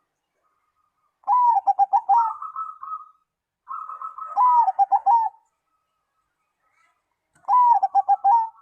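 Zebra dove (perkutut) cooing: three song phrases, each a quick run of rippling notes with a purring trill, separated by short pauses; the last phrase is cut off at the end.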